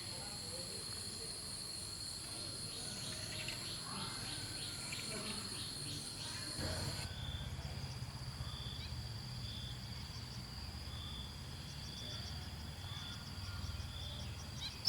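Insects trilling and droning in a steady high-pitched chorus, with a quick ticking pulse in the first half. About halfway through the sound changes abruptly. Short chirps then repeat about once a second over a low rumble.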